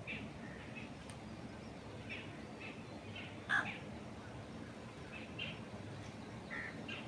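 Small birds chirping in short, scattered calls over a steady low wind noise in trees, with one louder, sharper call about halfway through.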